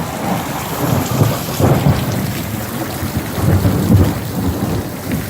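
Thunder from a close lightning strike breaks suddenly and rumbles in several rolls for about four seconds before easing, over the steady hiss of heavy rain.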